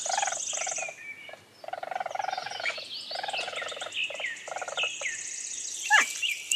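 Ferret dooking: fast, chuckling clucks in short runs of about a second, with thin high squeaks over them. A short falling squeal comes near the end.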